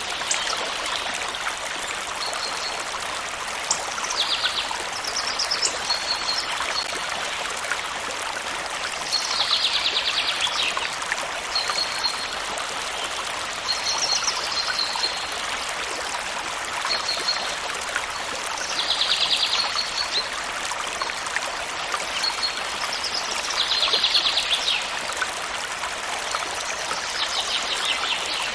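A stream of water running steadily, with a bird repeating a short trilled call about every five seconds and giving single high chirps in between.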